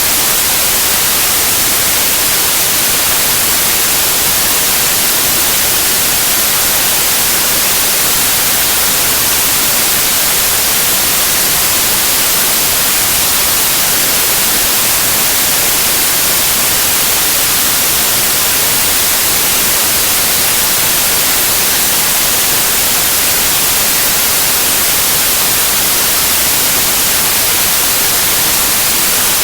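Steady white noise: an even, unchanging hiss, brightest in the high end, with no tones or events.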